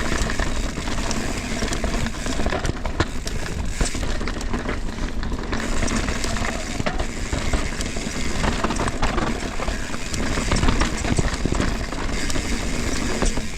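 Mountain bike rolling over a rocky, wet trail: a steady rumble with a constant run of sharp knocks and rattles as the tyres hit rocks and roots.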